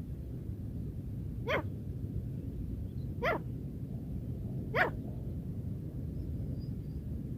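Female grey francolin giving three short calls, about a second and a half apart, over a steady low rumble.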